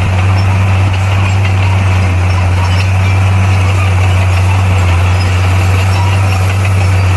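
Bulldozer's diesel engine running at a steady, unchanging speed, with a deep, constant hum.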